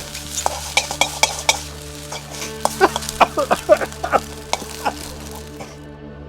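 Fried rice being stir-fried in a wok: a metal utensil repeatedly clanks and scrapes against the pan over sizzling food, the clatter busiest in the middle. It stops suddenly near the end.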